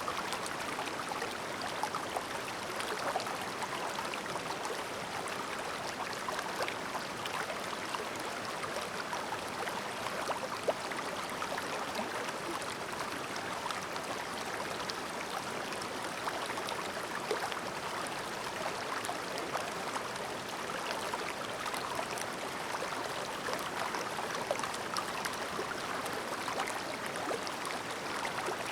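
Clear shallow stream babbling steadily, with a constant rush of water and many small splashes and trickles.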